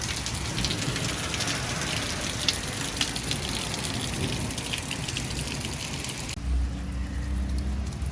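Pea-sized hail falling hard: a dense hiss of ice pellets with many sharp clicks as they strike. About six seconds in, it cuts suddenly to a quieter scene with a steady low hum.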